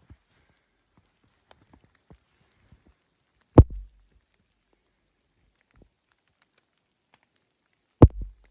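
Large water drops striking the camera or microphone: two sharp, loud knocks, each with a brief low thud, about four seconds apart, one a little past a third of the way in and one near the end.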